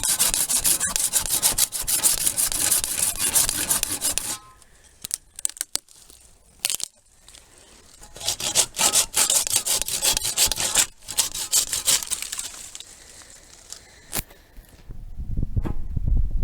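Saw cutting through fallen spruce wood in two spells of rapid strokes with a quieter pause between, broken by a few sharp snaps or knocks. A low rumble comes in near the end.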